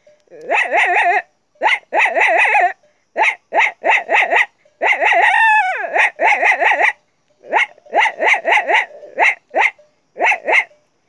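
A boy imitating a dog with his voice: a run of about fifteen uneven barks, some short and clipped, some drawn out, with one longer bark falling in pitch about five and a half seconds in.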